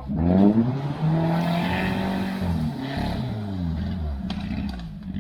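Off-road motorcycle engine revving under load: it rises sharply at the start, holds at high revs for a couple of seconds, then drops back to lower revs.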